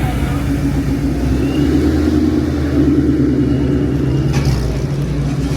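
Car engine running with a steady deep exhaust rumble and a faint high-pitched whistle over it.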